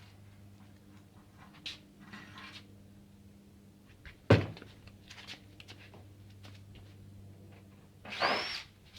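Handling noises while working on the water heater: a sharp knock about four seconds in and a short scraping squeal that rises in pitch near the end, with a few light clicks over a low steady hum.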